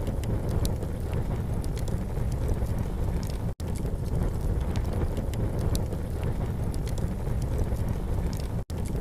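Campfire crackling, with small sharp pops scattered over a steady low rumble. The sound cuts out to silence for an instant twice, about three and a half and eight and a half seconds in.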